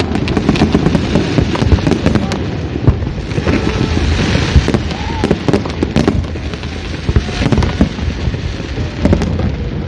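Fireworks display: many bangs going off in quick, irregular succession over a continuous low rumble of bursts, with a stretch of hissing crackle about four seconds in.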